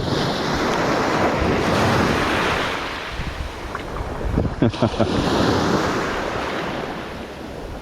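Ocean surf washing in, with wind buffeting the microphone; the wash swells about a second in and again around five seconds.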